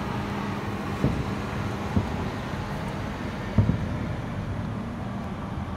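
Distant fireworks shells bursting as dull low thumps, four in all, the last two close together, over a steady low background rumble and hum.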